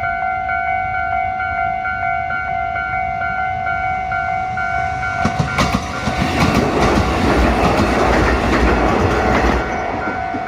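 Level-crossing warning bell ringing in a steady repeating pattern. About five seconds in, a Kotoden electric train passes close by, its wheels clicking over the rail joints, loudest for a few seconds and then easing while the bell keeps ringing.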